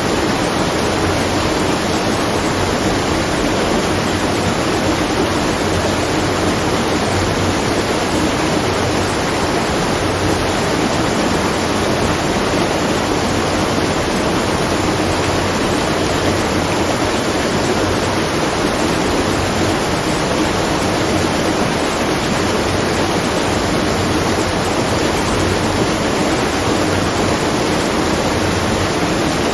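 Water falling and splashing at a watermill, a steady unbroken rush with no clicks or knocks.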